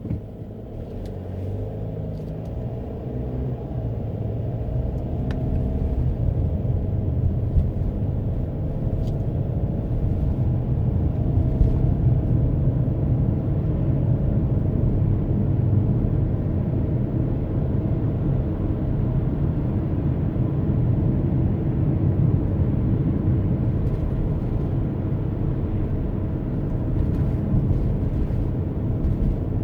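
A car driving along the road: a steady low engine-and-tyre rumble, muffled as heard from inside the car. It grows louder over the first few seconds, then holds steady.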